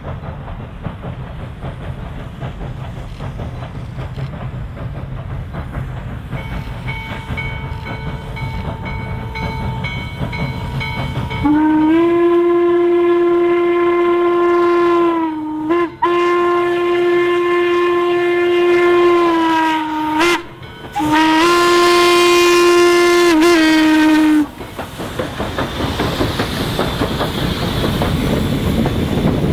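Steam locomotive whistle, likely Western Maryland 2-6-6-2 No. 1309's, sounding three long blasts over the rumble of the moving train. The pitch sags at the start and end of each blast, and a softer whistle tone comes before the first. The train noise grows louder near the end.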